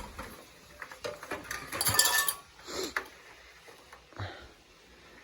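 Clinks and knocks of milking-machine parts being handled and set out, with one brief metallic ring about two seconds in.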